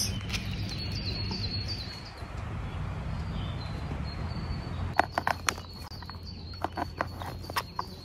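Small songbird singing in woodland, repeating short high chirps in runs, over steady low outdoor background noise. A few sharp clicks come about five seconds in and again near the end.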